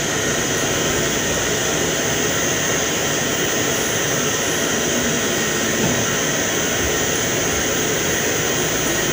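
A steady rushing noise drone, loud and even, with no beat, strikes or changes in pitch.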